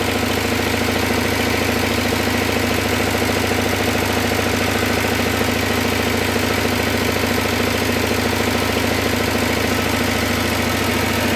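Single-cylinder diesel engine running steadily at constant speed, with a fast, even knock.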